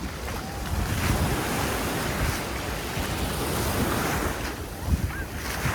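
Sea waves washing onto a sandy beach in a steady surging wash, swelling about a second in, with wind buffeting the microphone.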